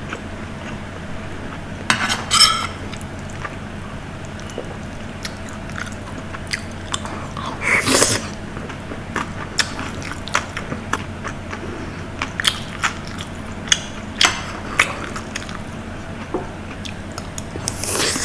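Close-up eating sounds: biting and chewing, with many small scattered clicks and a few louder noisy bursts, about two seconds in, around eight seconds and near the end.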